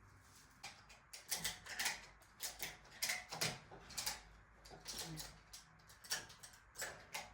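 Irregular metallic clicks and knocks, about two a second, as a stuck engine and transmission are worked loose during removal from a truck; the drivetrain is hanging up because the fuel lines are still connected.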